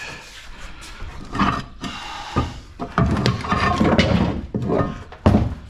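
Irregular clattering, knocking and scraping of metal and plastic parts being handled as an appliance is taken apart for scrap. It gets busier about halfway through, with a sharp knock near the end.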